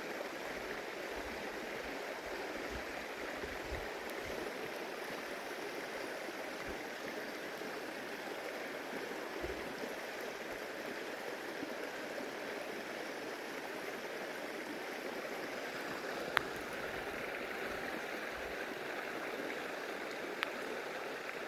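A stream flowing steadily over rocks, with two brief faint clicks late on.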